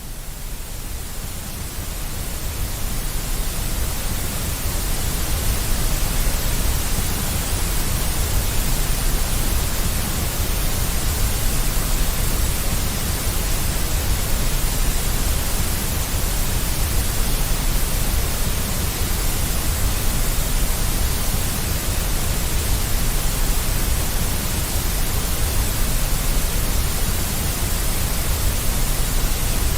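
Deep white noise: a steady, even hiss with a strong low rumble beneath it, fading in over the first few seconds and then holding level.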